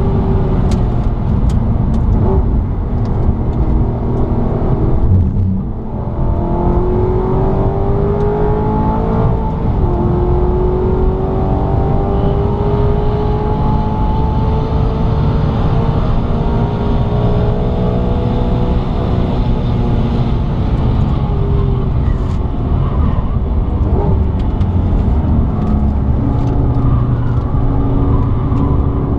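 Maserati GranTurismo MC Stradale's V8 engine heard from inside the cabin under hard track driving: a brief drop in revs about five seconds in, then a long climb in pitch as it pulls, easing and falling away after about twenty seconds. A few sharp crackles come through near the start and again near the end.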